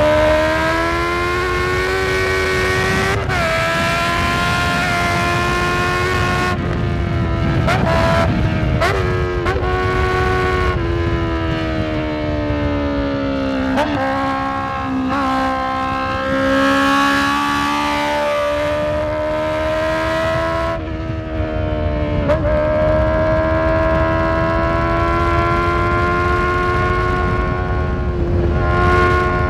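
Honda CB650F inline-four engine running under way, its pitch slowly falling and climbing with the throttle and breaking sharply several times as gears change.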